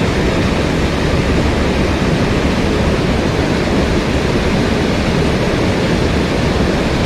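Mountain stream water rushing steadily over rocks, a loud, even noise.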